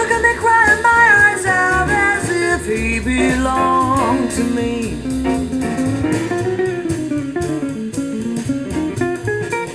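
Jazz song played back through a homemade speaker with a FOSTEX FE167 full-range driver and FT17H tweeter, heard through the air in the room: a passage led by guitar over bass with little or no singing.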